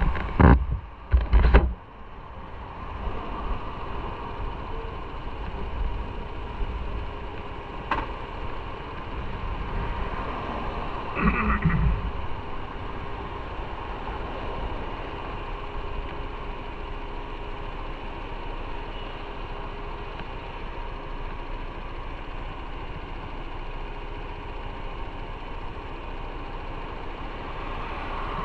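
Motorcycle engine running steadily, with wind rumbling on the microphone in the first couple of seconds and a brief louder swell about eleven seconds in.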